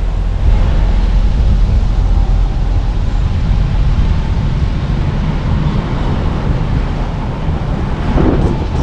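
A car driving along a road, giving a steady low rumble of engine and tyre noise. A brief louder rush comes near the end.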